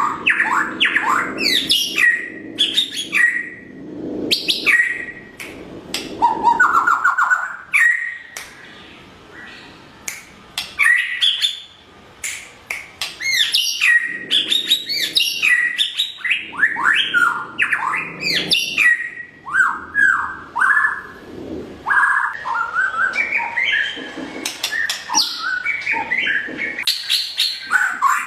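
White-rumped shama (murai batu) singing a varied song of whistled phrases, quick rising and falling notes and short trills, with a quieter stretch about a third of the way in.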